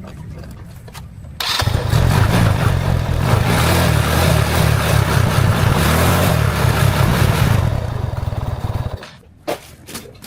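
Old motorbike's petrol engine running. It goes suddenly loud, as if revved, about a second and a half in, holds there for about six seconds, then dies away and stops near the end.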